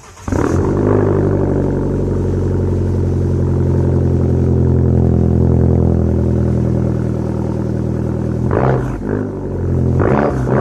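Fiat Punto Evo engine breathing through a custom 2.5-inch exhaust with dual 3-inch tips. It starts about a third of a second in and settles into a steady idle. Near the end it is blipped up in short revs, twice.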